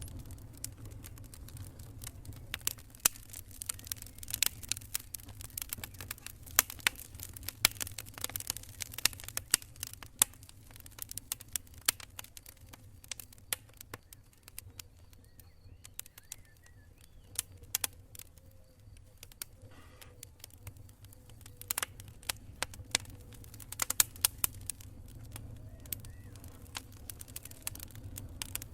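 Campfire of burning wood crackling: irregular sharp pops and snaps, thick in two spells and sparse in between, over a low steady rumble.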